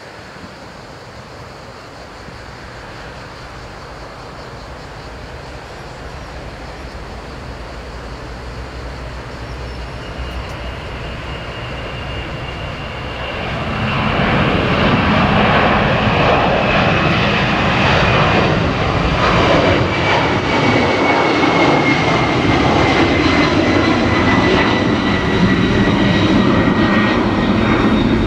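Airliner's engines growing steadily louder as it approaches, becoming loud about halfway through, with a high whine that falls slowly in pitch as it passes close by.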